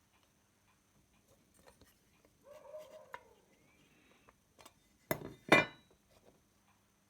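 Small metal parts and tools being handled on a workbench: scattered light clicks and taps, then two sharp metallic clinks about half a second apart, the second louder and ringing briefly.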